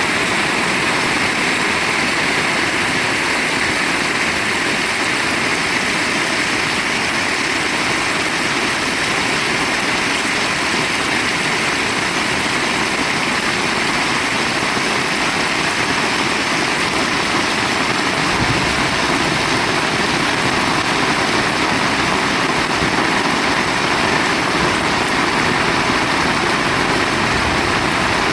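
Heavy rain pouring down steadily, a dense, even hiss. A low rumble grows slightly about two-thirds of the way through.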